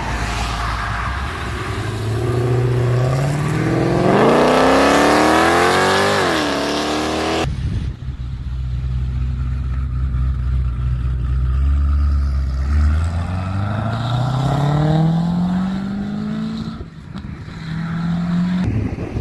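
Car engine revving: the pitch climbs steadily for several seconds, dips, and cuts off abruptly a little over seven seconds in. A deeper engine note then runs steady before climbing again as a car accelerates, easing off near the end.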